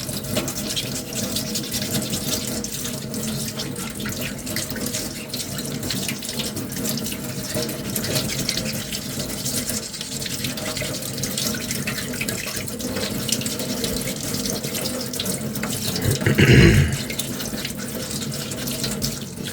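Wet sanding of a putty-primed 3D-printed armour piece with smooth-grit sandpaper under running tap water: a steady hiss of water with the scratch of the paper. A short, louder sound breaks in about sixteen seconds in.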